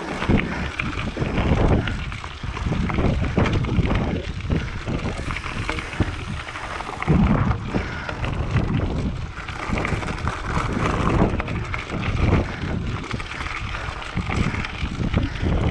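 Wind buffeting the microphone of a moving mountain bike, gusting unevenly, with the bike's tyres rolling on a dirt road.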